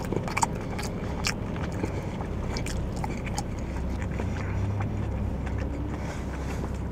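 Close-up chewing and wet mouth clicks of a person eating thinly sliced pig's feet, the small clicks scattered irregularly over a steady low hum.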